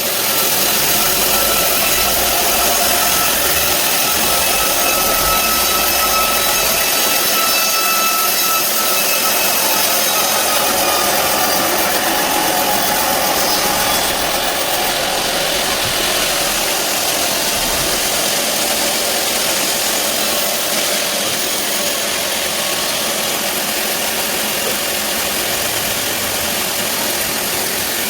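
Band sawmill running loud and steady, its blade cutting through a large teak log, with a thin whine over the saw noise that fades out about halfway through.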